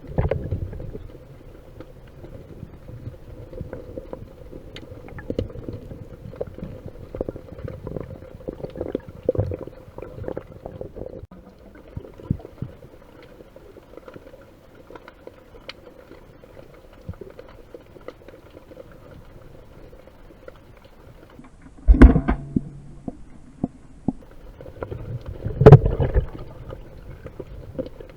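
Muffled underwater sound of a camera in a waterproof housing in rough surge, with scattered small clicks and knocks and two loud thumps about four seconds apart near the end.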